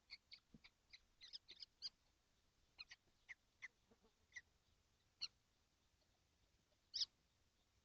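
Kestrel nestlings calling in a nest box: short, high calls, a quick run of them in the first two seconds, then scattered single calls, the loudest near the end.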